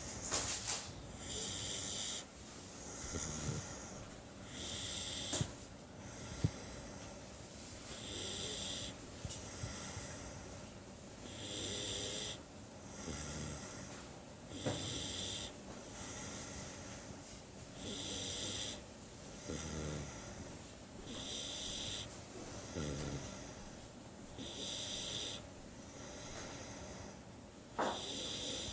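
A sleeping puppy snoring loudly, a steady rhythm of breaths in and out about every three and a half seconds. Each breath is a hissing, whistling snore, and some carry a lower fluttering snore beneath.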